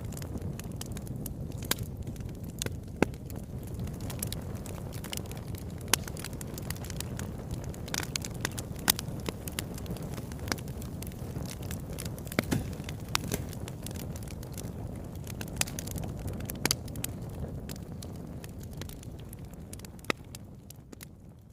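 Fire burning in a fireplace: a steady low rumble of flames with irregular sharp crackles and pops, fading down near the end.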